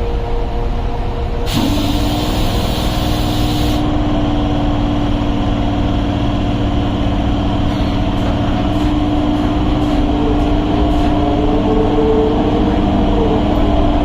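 Electric suburban train on the Chennai Beach–Velachery line, giving a steady low rumble with a steady hum that sets in about a second and a half in. A loud hiss lasts about two seconds near the start, and a few light clicks come later.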